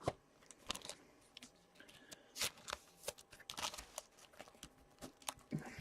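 Faint handling of 2017-18 Upper Deck Series 1 hockey trading cards as they are flipped and slid through the hands one by one: a string of irregular soft clicks and swishes.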